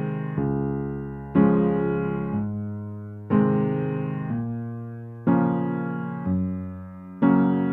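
Slow, soft keyboard music: piano-like chords struck about once a second, each ringing out and fading before the next.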